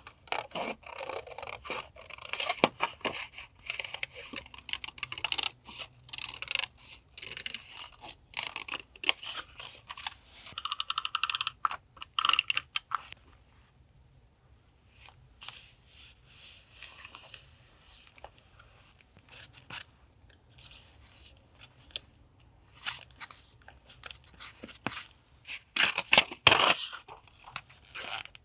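Paper handled close to the microphone in collage journaling: irregular crinkling, rustling and tearing. A quieter stretch comes in the middle, then a loud flurry of rustling near the end.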